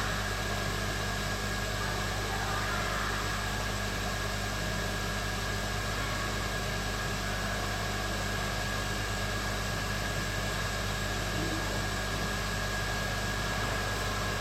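Hot-air rework station blowing steadily, a fan-driven rush of air set to 250 °C, over a constant electrical hum and a thin steady whine.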